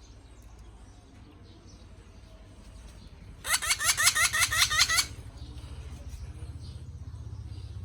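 Parrot giving a rapid run of about ten short, shrill calls, each rising in pitch, about six a second for a second and a half starting about three and a half seconds in. A steady low hum runs underneath.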